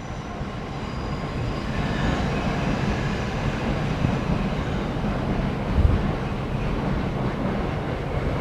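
A Class 66 diesel freight locomotive and its train running past, a steady low rumble of engine and wheels on the rails.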